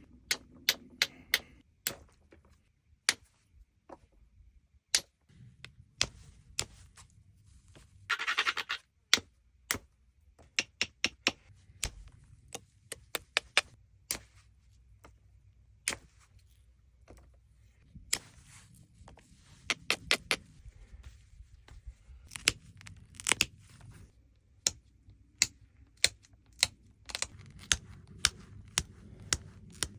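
A stone flake being knapped into a small finger blade: irregular sharp clicks and ticks of stone on stone as small flakes are taken off the edge. About eight seconds in there is a second of rough scraping, and more scraping comes and goes around twenty seconds, typical of abrading the edge between removals.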